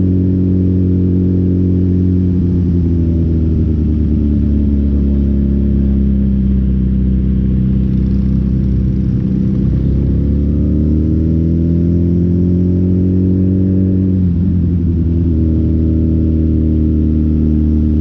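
Motorcycle engine running steadily under way, its low drone sinking and rising with changes in speed, with a brief dip and recovery near the end.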